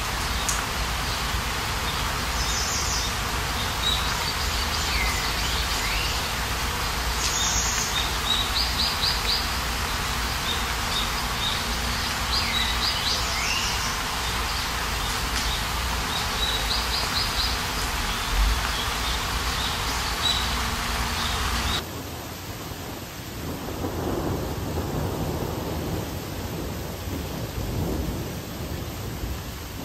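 Heavy rain mixed with hail pouring onto a paved walkway and lawn, a steady hiss. A bird chirps now and then over it. About three-quarters of the way through, the sound suddenly drops to a quieter, duller rush.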